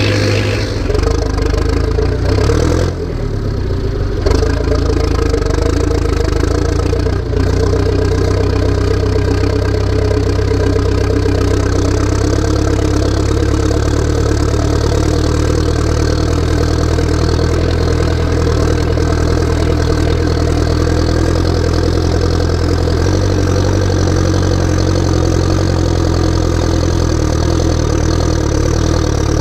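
Massey Ferguson tractor's diesel engine running steadily, with two brief dips about three and seven seconds in and a change in its note a little past three quarters of the way through.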